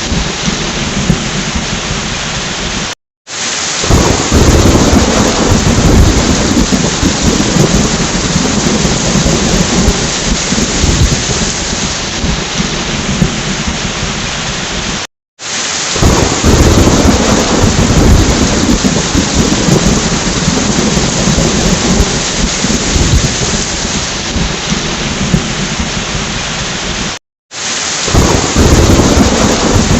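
Heavy rain with rolling thunder. Three times, about twelve seconds apart, the sound cuts out completely for a split second and comes back with a louder low rumble of thunder.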